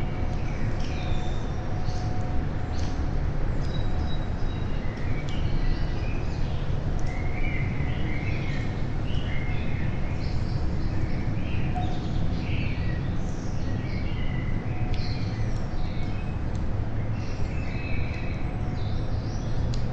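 Songbirds chirping and calling, many short overlapping calls throughout, over a steady low rumble.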